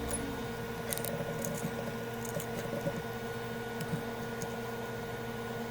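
Scattered faint clicks and light scrapes of small tools handling tiny parts at a microsoldering bench, over a steady electrical hum from the bench equipment.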